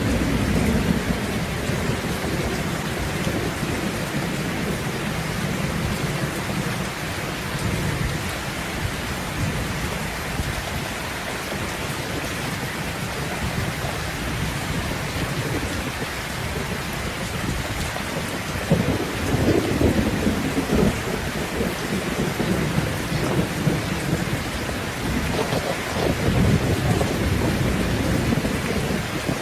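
Steady heavy rain falling in a thunderstorm, with low rolls of thunder rumbling under it, one swelling about two-thirds of the way through and another near the end.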